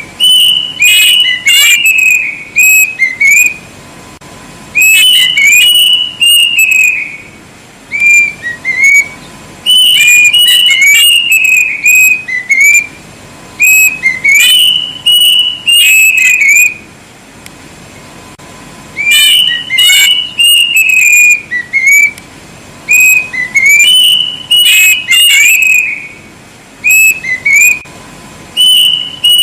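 Kedasih (plaintive cuckoo) singing loud, clear whistled phrases of sliding notes, repeated in bouts of two to three seconds with short pauses between.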